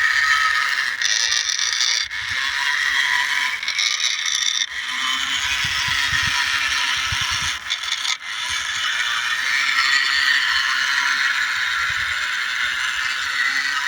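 Remote-control toy tractor's small electric motor and gearbox whining as it drives, with scraping and rattling, the whine starting and stopping in short spells.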